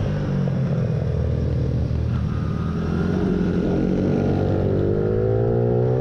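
Motorcycle engine heard from onboard on a track, the revs dropping as it slows into a corner, then rising steadily over the last three seconds as it accelerates out.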